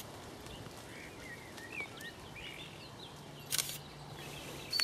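Quiet outdoor ambience with faint, scattered bird chirps and one brief sharp sound about three and a half seconds in.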